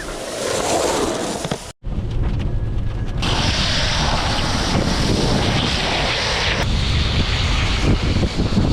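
Wind buffeting the microphone with a steady rushing rumble, as on a downhill longboard run, in short clips cut together: the sound drops out briefly about two seconds in and changes abruptly at about three and seven seconds.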